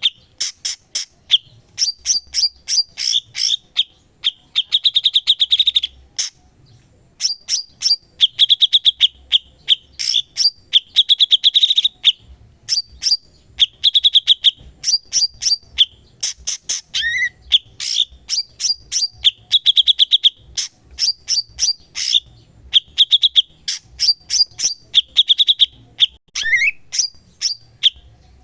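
A cucak cungkok singing continuously. It repeats phrases every couple of seconds of rapid sharp chips running into a fast trill, with high clear notes between the phrases. Twice a quick downward-sliding note breaks in.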